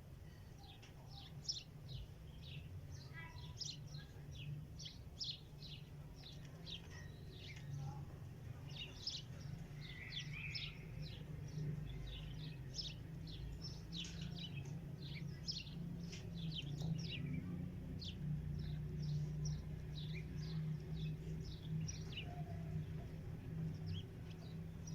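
Small songbirds chirping rapidly and continuously, many short high chirps a second, over a steady low hum.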